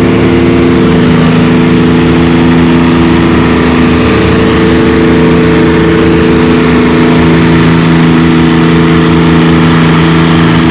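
Oliver 1800 tractor with a swapped-in Cummins diesel engine, running hard at a steady, even speed while pulling the sled.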